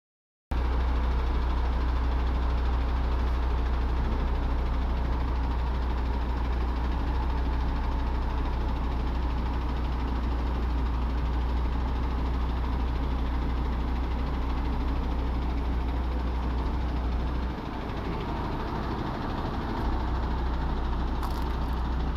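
Heavy truck diesel engine running steadily at idle, a deep low rumble. Near the end the rumble briefly drops away, then returns.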